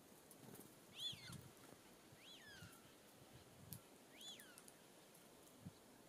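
Faint bird calls at a seed feeder: three short whistled notes, each rising and then falling, about a second in, at two seconds and at four seconds, with a few soft taps between them.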